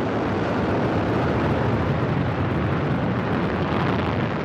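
Soyuz-FG rocket's first stage climbing after liftoff: a steady, dense rumble from the four strap-on boosters and the core stage's kerosene–liquid-oxygen engines firing together.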